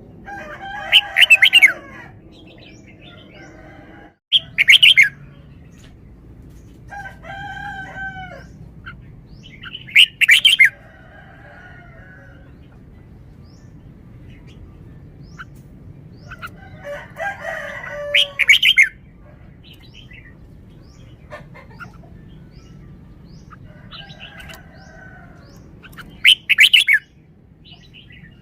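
Red-whiskered bulbul singing short, loud, warbling song phrases every few seconds, with pauses between them.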